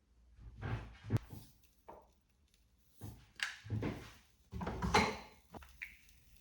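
Three short spells of household handling noise: rustling with dull knocks and a sharp click, as objects are moved about, with quiet gaps between.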